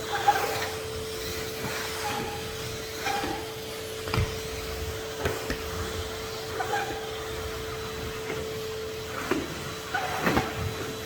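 Henry HVR200 620 W vacuum cleaner running with a steady motor whine, and repeated knocks and short scrapes as it is worked over surfaces.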